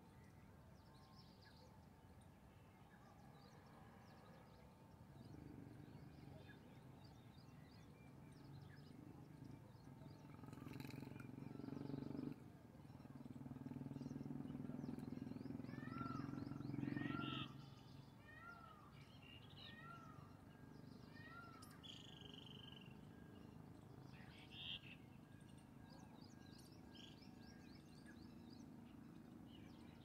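Birds calling: a run of six short, arching calls about a second apart in the middle, over scattered faint high chirps. Before the calls a low rumble builds, then stops suddenly.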